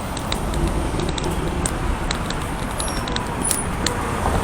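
Long cane tip clicking and scraping on paving and the curb edge as it sweeps left and right, about two ticks a second, over a steady rumble of road traffic.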